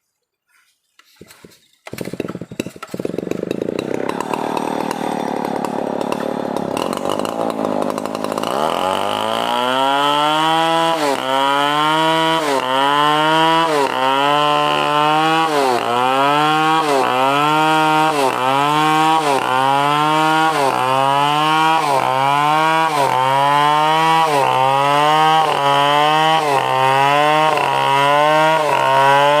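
Stihl 070 two-stroke chainsaw starting up about two seconds in and running loud. From about eight seconds in, its engine note dips and climbs again roughly once a second as the saw works through the wood.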